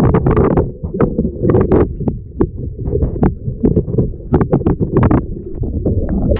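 Muffled low rumble of churning river water with many sharp knocks and bumps through it, as a kayak goes down a waterfall and flips.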